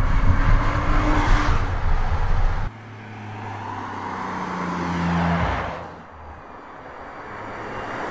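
Audi RS 4 Avant's twin-turbo V6 engine and tyres as the car drives by. A loud, close pass cuts off abruptly about two and a half seconds in. A quieter pass-by then swells and fades, and a third starts to rise near the end.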